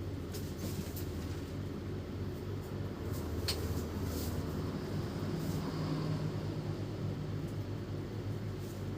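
A steady low hum with a few light clicks and taps of small parts being handled, one sharper click about three and a half seconds in.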